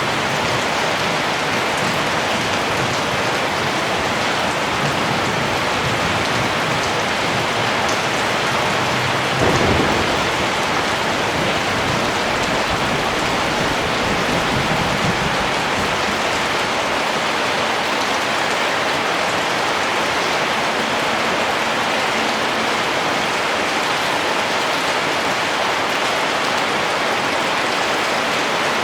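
Steady rain falling. A roll of thunder breaks in about a third of the way through, loudest at its start, and rumbles on low for several seconds before fading.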